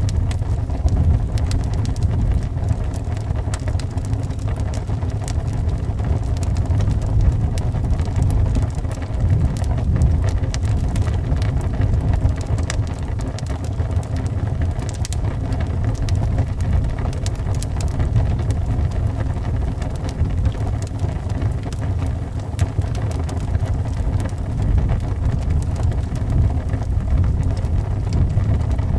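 Wood fire crackling with many scattered sharp pops, over a steady low wind noise.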